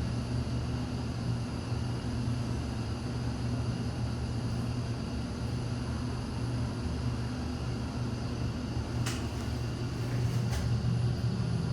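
Hyundai passenger elevator running: a steady low hum and rumble of the car in travel, with two faint clicks late on.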